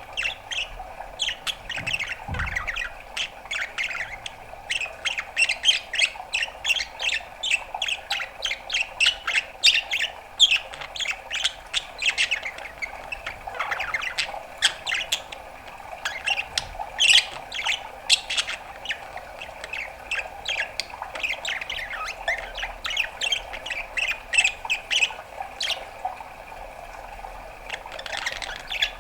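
Pet budgerigar chattering: a fast, busy run of short chirps and squawks, several a second, with a brief pause near the end.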